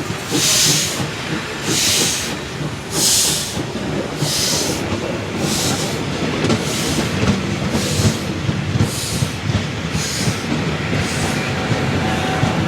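Swedish steam locomotive SJ 1916 chuffing as it pulls away, its exhaust beats about a second apart, coming gradually quicker and fainter, with the train's wheels clattering over the rail joints.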